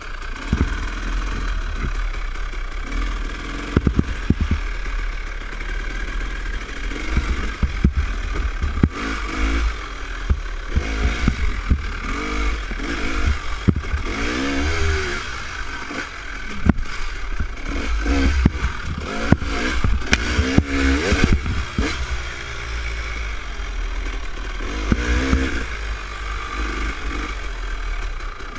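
Dirt bike engine on a trail ride, its pitch repeatedly rising and falling as the throttle is opened and closed, over a steady low rumble. Frequent sharp clattering knocks come from the bike over rough ground.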